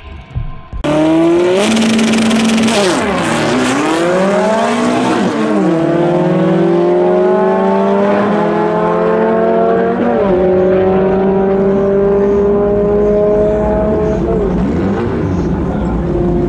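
VW drag car's engine at full throttle accelerating away from the line down a drag strip. It starts abruptly about a second in, its pitch climbs steadily and drops back at each upshift, three times, then it fades slightly as the car reaches the far end of the track.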